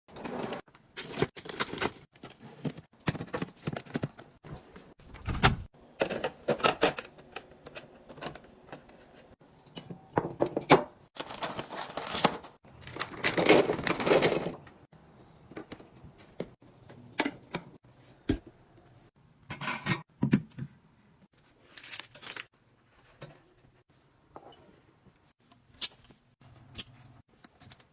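Groceries and food containers being handled and put away in a fridge: irregular knocks, clatters and taps as items are set down, with packaging rustling. Around the middle there is a longer stretch of rustling or tearing, and the handling sounds grow sparser near the end.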